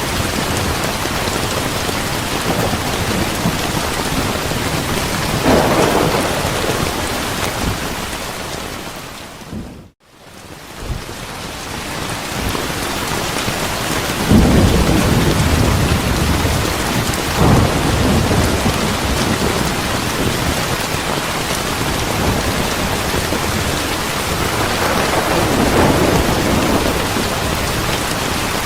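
Steady heavy rain with several low rolling thunder rumbles. About ten seconds in the whole sound fades down to almost nothing and quickly swells back.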